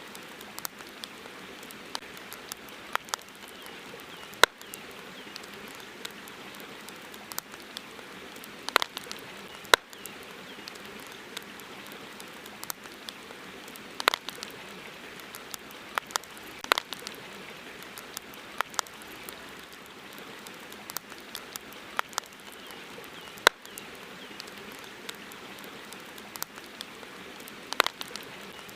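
Wood campfire crackling: irregular sharp pops and snaps, a few much louder than the rest, over a steady hiss.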